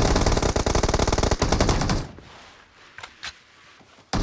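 Rapid automatic gunfire in a shooter video game: a sustained burst that stops about two seconds in, a couple of faint clicks, then firing starts again near the end.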